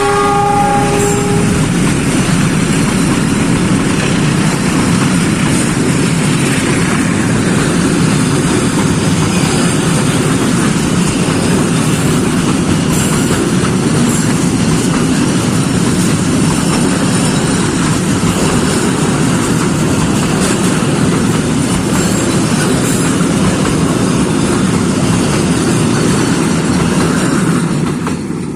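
Train passing close by: a steady rumble and rattle of wheels on the rails, with a few sharp clicks along the way. A train horn's chord of several tones, already sounding, cuts off about a second and a half in, and the rumble falls away at the very end.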